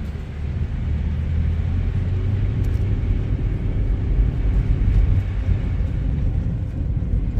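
Steady low rumble of a car on the move: engine and road noise with no distinct events.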